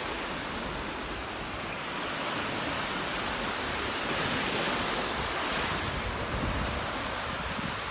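Ocean surf washing onto the beach, a steady rush that swells to a peak about halfway through and eases off again, with some wind rumbling on the microphone.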